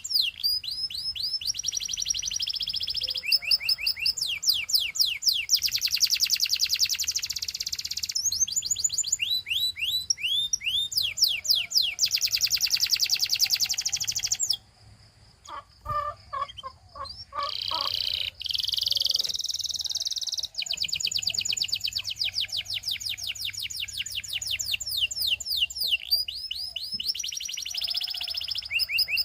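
Domestic canary singing in long trills: rolls of rapid, repeated downward-sweeping whistled notes, each roll changing to a new note. Just past halfway the song breaks off for a couple of seconds, with a few lower chirps, then the trilling resumes.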